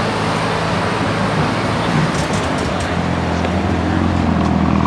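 Car engines idling together in a parking area, a steady low hum that grows a little stronger near the end.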